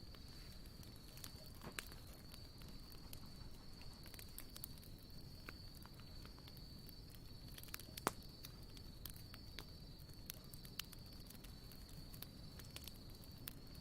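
Wood campfire crackling faintly, with scattered small pops and one louder pop about eight seconds in.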